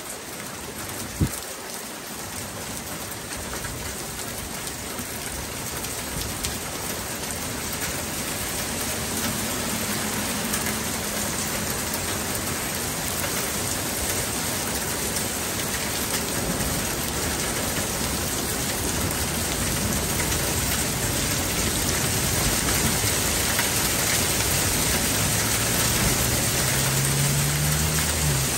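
Rain falling steadily and growing heavier, with a single sharp tap about a second in. A low steady hum comes in near the end.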